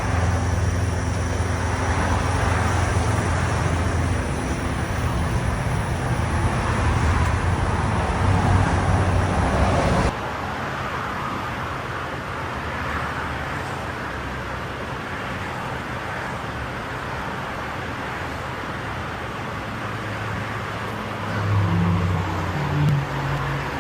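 Truck engine running with a steady low drone, then, after an abrupt change about ten seconds in, a quieter, even road or traffic rush. There are two brief low engine swells near the end.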